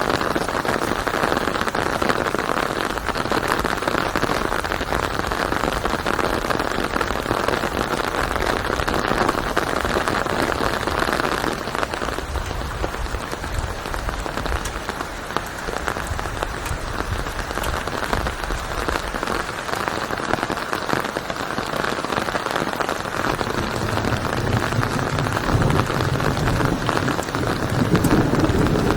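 Steady rain falling, an even hiss of many drops. Near the end a low rumble builds beneath it.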